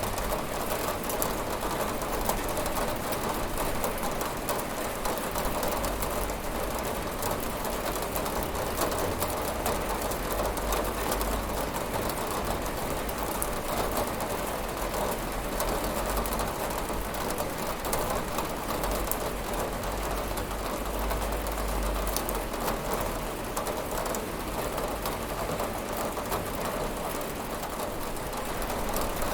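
Steady rain pattering on a window pane, an even hiss of many fine drops, with a low rumble swelling now and then beneath it.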